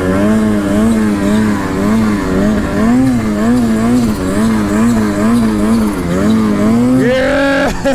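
Snowmobile engine running under heavy throttle while riding through snow, its pitch wavering up and down about twice a second as the throttle is worked, then climbing near the end.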